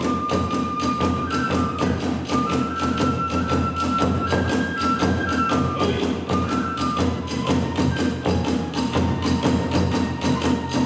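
Kagura hayashi ensemble playing in the fast eight-beat (hachi-chōshi) style: a bamboo flute holds and steps through a melody over quick, steady strikes of drum and small hand cymbals.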